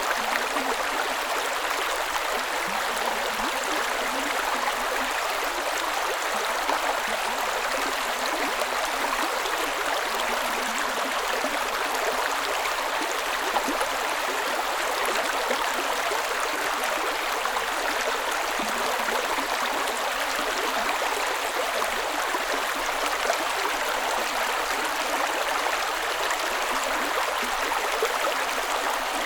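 Creek water running and splashing over rocks, a steady, even rush with fine bubbling detail.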